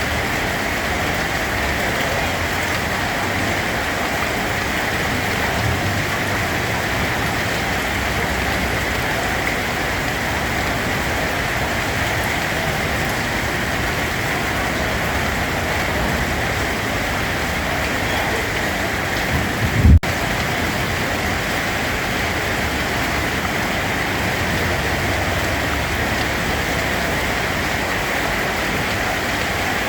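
Steady rain falling, an even hiss of drops on a surface. About two-thirds of the way through, a brief low rumble swells and then cuts off with a momentary dropout.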